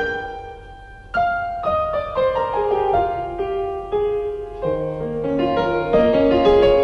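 Slow piano music: a held chord dies away over the first second, then a falling line of single notes follows, and lower bass notes join about two thirds of the way through.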